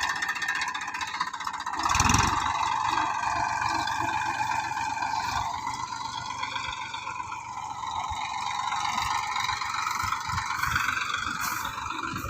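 Tractor engine running steadily, with a louder surge about two seconds in.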